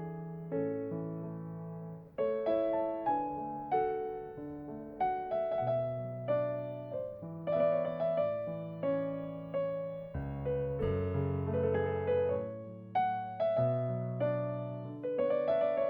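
Background piano music: a slow, gentle keyboard piece with chords and single notes struck about once a second and left to ring.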